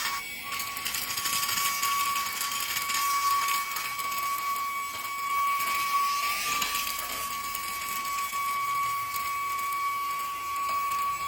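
Car vacuum cleaner motor running at full speed: a steady high whine over rushing air, with a brief wobble in pitch about six seconds in.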